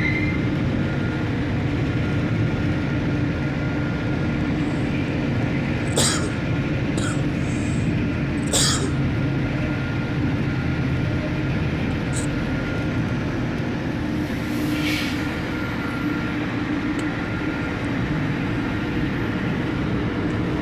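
A dredger's engine running steadily with a low, even drone. A few sharp knocks come through it about six, seven, eight and a half and twelve seconds in.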